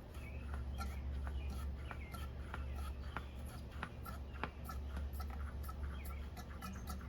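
Rubber primer bulb on a Stihl FS36 trimmer's Walbro carburetor pressed over and over, a soft click about twice a second, drawing fuel through the lines to prime the carburetor. Faint short high chirps and a steady low hum underneath.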